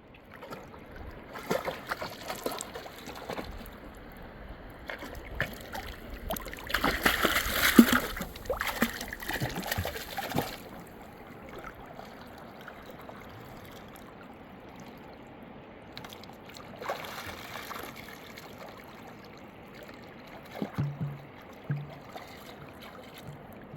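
River water splashing in irregular bursts, the loudest a few seconds in lasting about four seconds, over a faint steady trickle.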